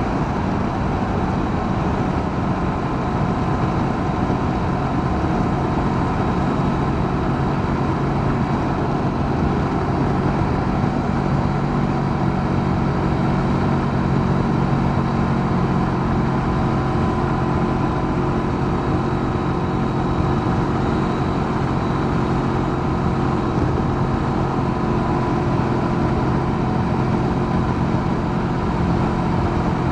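Honda CB500X's parallel-twin engine running at a steady, even pitch while the motorcycle cruises along the road.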